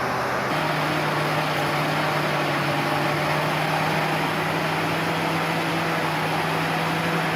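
Heavy truck engine running steadily. About half a second in, its hum steps up slightly in pitch and then holds.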